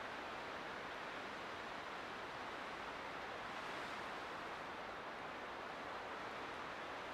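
Light wind blowing steadily, an even rushing hiss with no gusts or other events.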